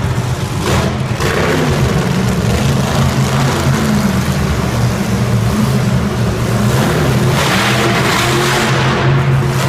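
Monster truck engine running loud, its pitch rising and falling a little as it revs.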